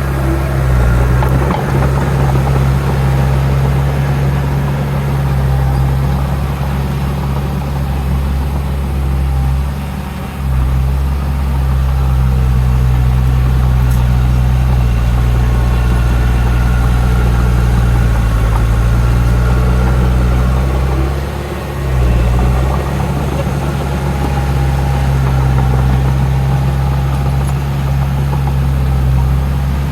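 Heavy diesel engine of earthmoving machinery running steadily at a deep, constant drone, easing off briefly about ten seconds and twenty-two seconds in.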